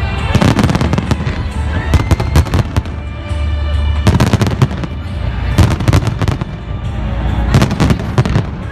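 Fireworks going off in repeated clusters of bangs and crackles, about every second and a half to two seconds, over music playing.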